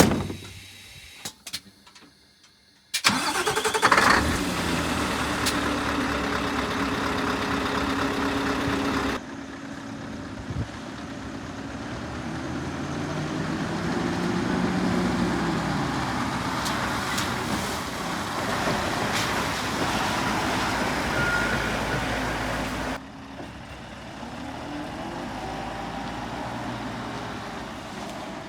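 An engine starts suddenly about three seconds in, after a few clicks, then runs with its pitch rising and falling.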